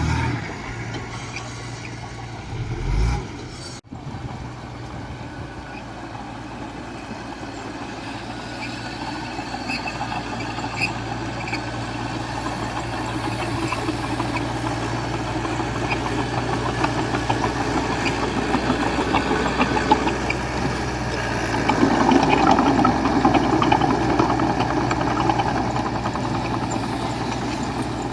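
Diesel engine of heavy earthmoving machinery running steadily with a constant low hum, growing louder as it works and loudest about four-fifths of the way through.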